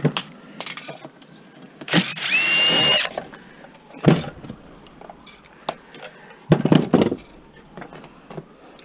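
A power drill runs in one short burst about two seconds in, its motor whine rising then holding steady, amid sharp knocks and clanks of metal parts being handled, with a loud clatter around seven seconds in.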